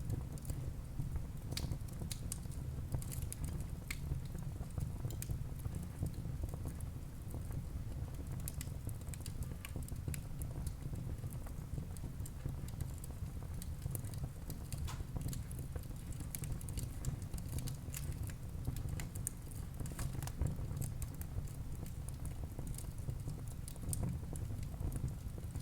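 Wood fire burning in a fireplace: a steady low rumble of flames with frequent small crackles and pops of burning logs scattered throughout.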